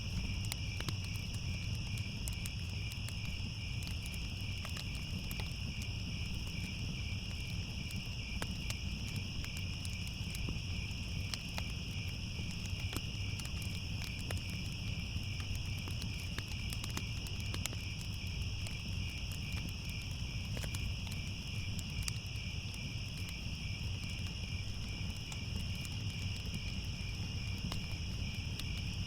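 Crickets chirring steadily, with scattered pops and crackles of a wood fire and a low steady rumble underneath.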